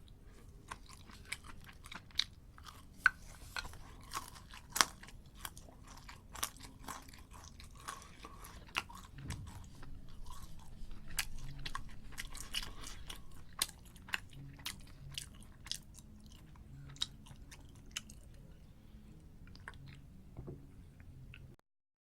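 Close-miked eating: a person chewing and crunching crisp food, with many sharp crackles and clicks. The sound cuts off suddenly near the end.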